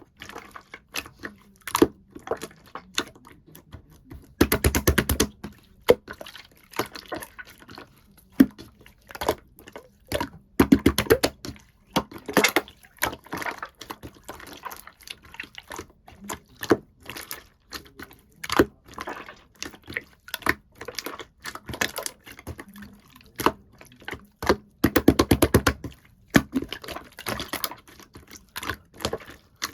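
Clear slime being squished and poked by hand, making irregular sticky clicks and wet pops, with three runs of rapid crackling clicks about 5, 11 and 25 seconds in.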